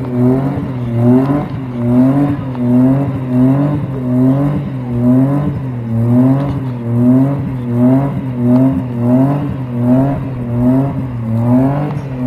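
A car engine held at high revs, its pitch rising and falling in a steady repeating cycle about one and a half times a second.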